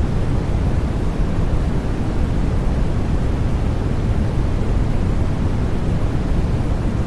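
Steady, unchanging white noise, heavier in the low end, so it sounds like a deep, even whoosh rather than a bright hiss.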